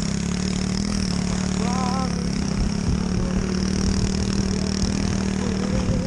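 Small pit bike engine running steadily at a constant speed.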